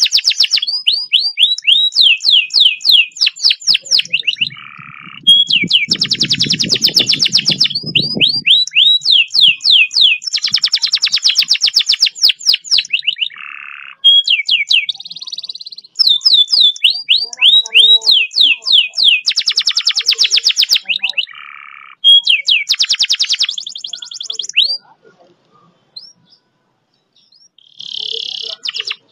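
Domestic canary singing long, fast rolls: rapid runs of repeated high chirping notes, phrase after phrase with short breaks. A low rumble comes in for a few seconds about a quarter of the way through, and the song thins to a few scattered notes near the end.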